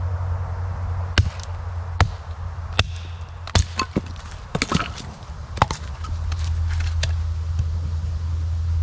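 Wood being chopped and split with a cutting tool: about eight sharp, irregular blows, roughly one a second, over a steady low rumble.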